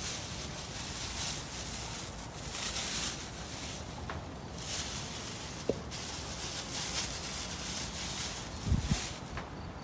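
Chamomile plants rustling as they are brushed through and handled, coming and going in patches over a steady low rumble. There are a couple of short thumps near the end.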